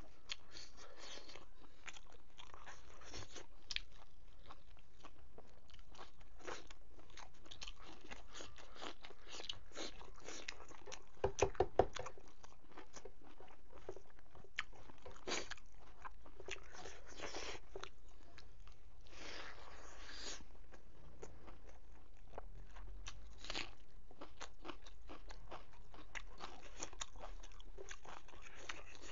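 Close-up mouth sounds of a person eating rice and pork by hand: steady chewing and crunching with many small wet clicks. About eleven seconds in comes a quick run of five or so louder, sharp clicks.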